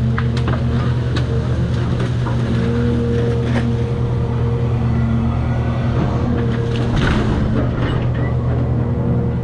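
Cat 336 excavator's diesel engine running steadily with a constant whine, with scattered sharp cracks and crunches, a cluster of them about seven seconds in.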